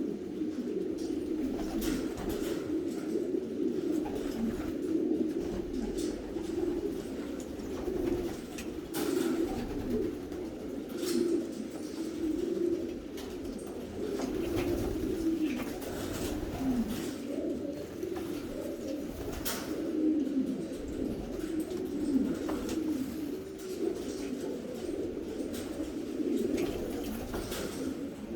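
Many domestic racing pigeons cooing together in a loft, a continuous overlapping murmur of low coos. Scattered short clicks and knocks are heard throughout.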